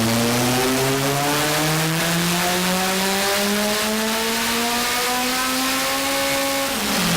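Car engine making a full-throttle pull on a chassis dyno: the revs climb steadily for about seven seconds, then drop sharply near the end as the throttle is closed.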